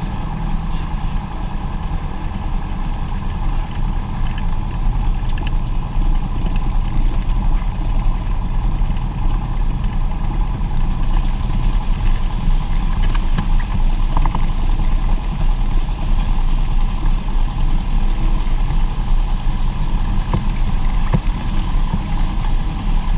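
Propeller aircraft engine running steadily with a constant drone. It gets a little louder a few seconds in, and a hiss joins it about halfway through.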